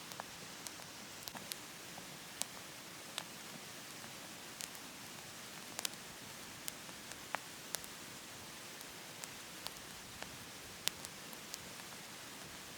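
Wood fire burning in a wood stove, with sharp crackles and pops about once or twice a second over a steady hiss.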